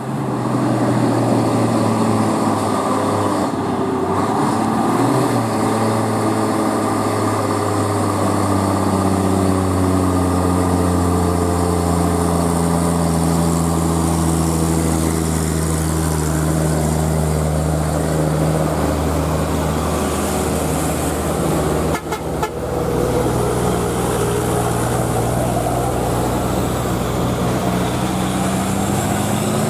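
A heavily loaded truck's diesel engine labouring uphill, a steady low drone whose pitch drifts slowly, with a brief break in the sound about three-quarters of the way through.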